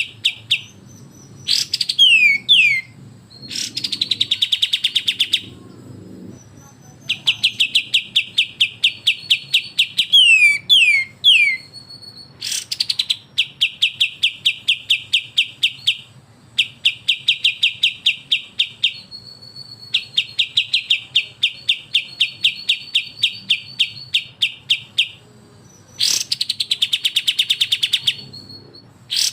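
Kapas tembak and cucak jenggot birds singing in rapid, continuous trains of sharp high chips, several a second. The trains are broken by a few downward-slurred whistles and harsh rattling bursts.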